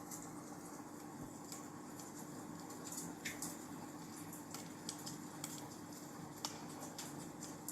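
Wood fire burning in a fireplace: a soft steady hiss with irregular sharp crackles and pops, about a dozen of them.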